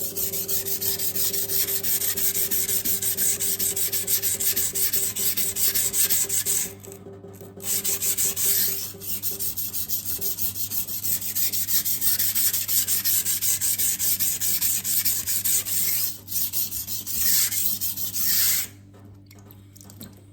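Steel knife blade scraping in rapid back-and-forth strokes on a 400-grit sintered diamond sharpening stone, grinding the second side of the edge to raise a burr. The strokes pause briefly about seven seconds in and stop about a second and a half before the end.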